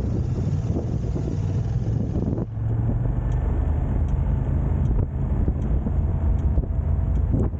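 Steady low rumble of a running engine, with a noisy rushing haze over it; the sound changes abruptly about two and a half seconds in.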